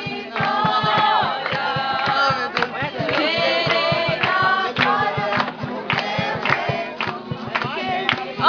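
A group of voices singing together, with a steady rhythmic beat under the singing.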